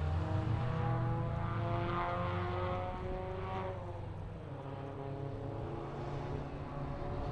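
Rally car engine pulling hard as the car drives away. Its note climbs through the revs, drops at a gear change about three and a half seconds in, then climbs again while fading with distance.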